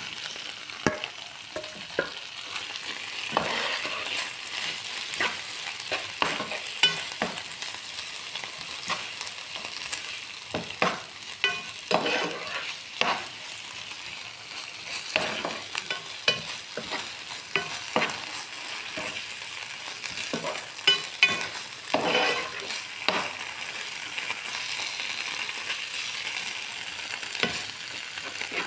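Chopped tomatoes and onions sizzling in a nonstick frying pan while a metal spoon stirs them. Frequent short clicks and scrapes of the spoon against the pan sound over a steady sizzle.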